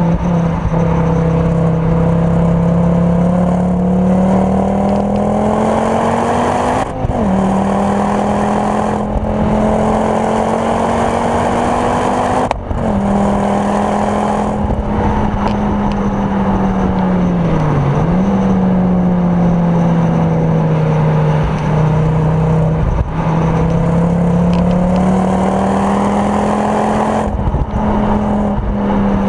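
Ford Focus RS Mk2's turbocharged five-cylinder engine, with a Mountune 420 bhp conversion and full Milltek exhaust, driven hard on track and heard from inside the cabin. Revs climb steadily and drop sharply at quick upshifts about seven and twelve seconds in, then fall and pick up again twice through corners.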